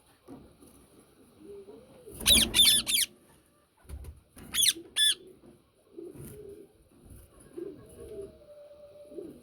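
Yellow Indian ringneck parakeet giving shrill screeches: three quick ones about two seconds in and two more around the middle, with soft low calls in between.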